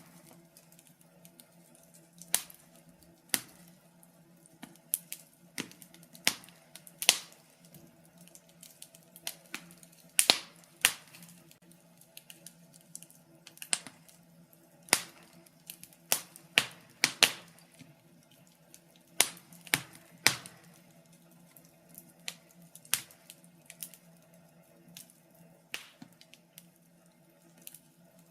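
Wood fire burning in a fireplace, crackling and popping at irregular intervals, about one or two sharp pops a second, some louder than others. A faint steady low hum runs underneath.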